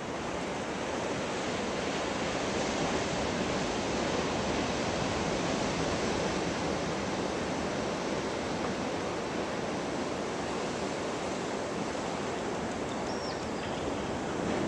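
Ocean surf washing steadily on the beach, an even, unbroken rush of noise, with one faint high chirp near the end.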